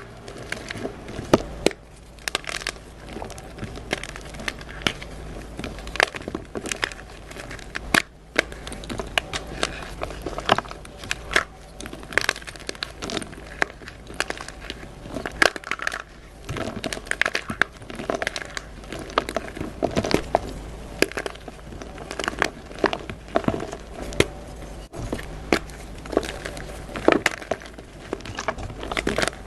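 Blocks of dyed gym chalk being crushed and crumbled, crunching with a steady stream of irregular sharp cracks.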